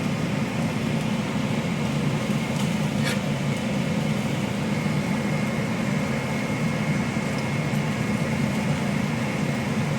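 Kitchen range vent hood fan running steadily, a constant low hum. A faint steady whine joins it about halfway through, and there is one short click about three seconds in.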